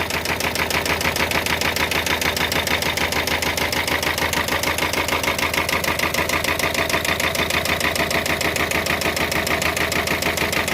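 Peugeot Expert 1.5 engine running at idle with a steady, rapid knocking. The first cylinder is not firing, and the mechanic suspects a dropped valve or something that fell inside the cylinder.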